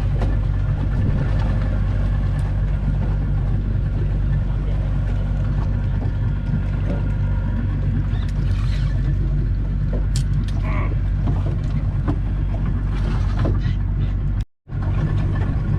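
Boat engine running steadily, a low even hum, with the sound cutting out for a moment near the end.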